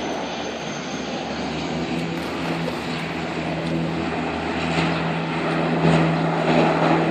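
Propeller engines of a firefighting water bomber running with a steady drone, growing somewhat louder in the last couple of seconds.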